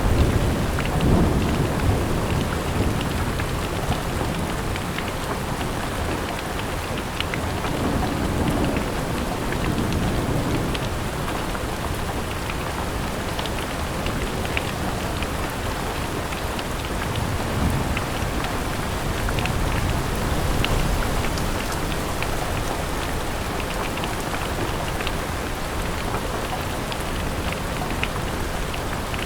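Steady rain falling on a window, with many small sharp drop ticks. Low rolling rumbles of thunder swell and fade several times, most strongly near the start and about a third of the way in.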